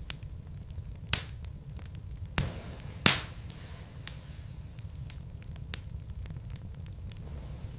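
Wood fire burning in a fireplace, with a steady low rumble and scattered small crackles. Three louder pops about a second, two and a half and three seconds in, the last the loudest.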